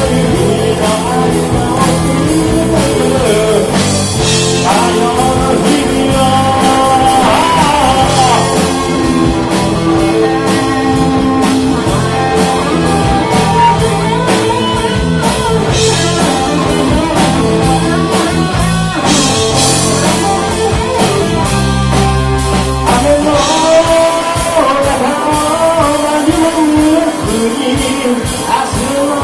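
Live rock band playing: electric guitar, bass and drums, with a singer's voice over them.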